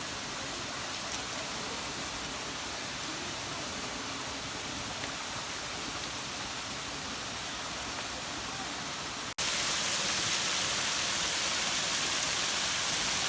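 Waterfall rushing steadily as an even wash of noise. About nine seconds in it cuts abruptly and comes back louder and brighter.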